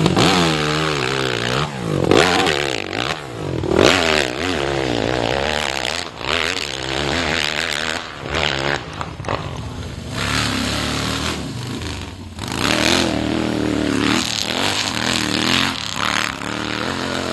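Hill-climb motorcycle engine revving hard under load, its pitch rising and falling again and again as the throttle is opened and backed off on the climb.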